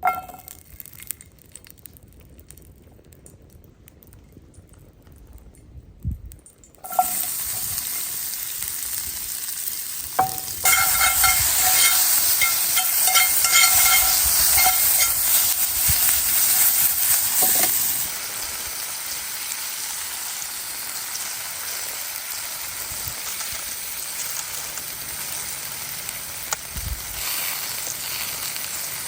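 Food frying and sizzling in a hot pan. The sizzle starts suddenly about seven seconds in, is loudest for the following several seconds, settles a little, and cuts off at the end. Before it there are only a few light knocks.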